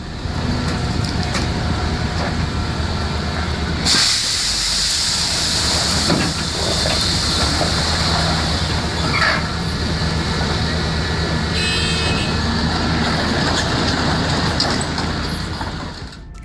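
A large engine running steadily under a noisy rumble, with a loud hiss setting in about four seconds in.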